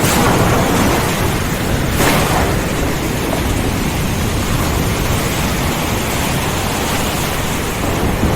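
Steady heavy rain of a thunderstorm, with a sudden crack of thunder at the start and another about two seconds in.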